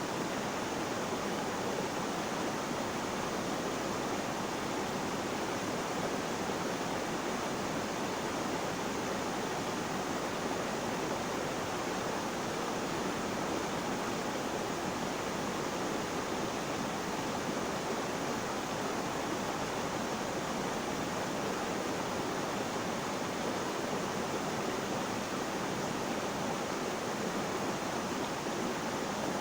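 Flowing water rushing steadily, an even hiss with no breaks or changes in level.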